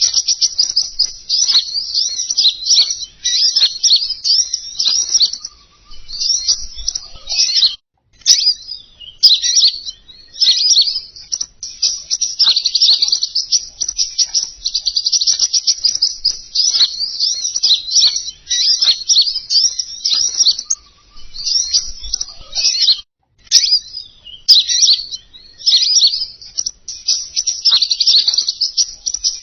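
Small songbird's high, rapid chirping and trilling song, a recording played as a bird lure: nearly unbroken strings of fast notes, with two brief pauses.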